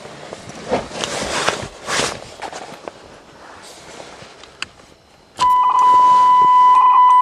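Rustling and handling noises inside a car with a single sharp click, then, about two thirds of the way through, a loud steady warning tone from the car's warning buzzer starts suddenly and holds on without a break.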